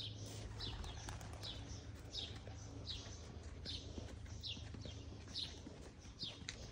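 A bird calling over and over, a short high falling note repeated at an even pace, a little more than once a second, over a low steady hum.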